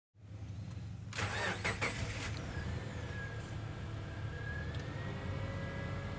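Subaru Forester flat-four engine running at idle, with a louder rushing burst about a second in and a faint high whine over the rumble from halfway on.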